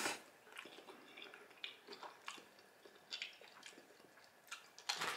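Close-miked wet chewing and lip-smacking of a mouthful of baked spaghetti, opening with a slurp of noodles, with small smacks and clicks throughout and a louder bite into garlic bread near the end.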